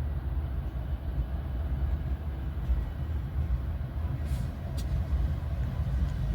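Low, steady rumble of a train, with a brief hiss and a sharp click a little past four seconds in.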